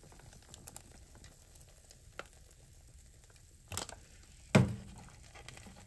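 Soy sauce sizzling with small scattered pops as it hits the hot frying pan around garlic-butter mochi on foil. A loud knock comes about three-quarters of the way through, with a smaller one just before it.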